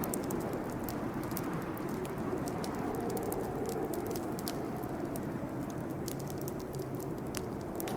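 Campfire burning: a steady low rush of flames with frequent small, sharp crackles and pops at irregular intervals.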